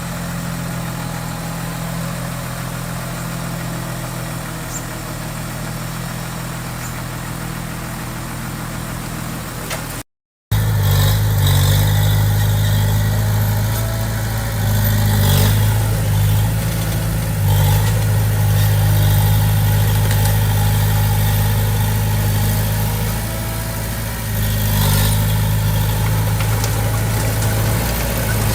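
Diesel engine of a Komatsu D20P small bulldozer running steadily, with a short break about a third of the way in, after which it is louder and rises and falls in level as it works, with an occasional clank.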